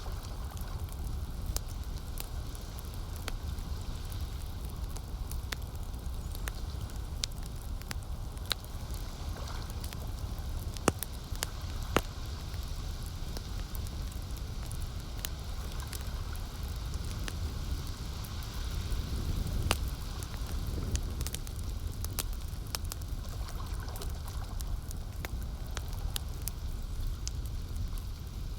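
Campfire wood burning with frequent crackles and sharp pops, two louder snaps about eleven and twelve seconds in, over a steady low wash of lake water.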